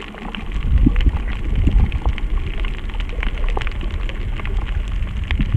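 Rain falling, a steady patter of drops, with a deep low rumble that comes in about half a second in and stays.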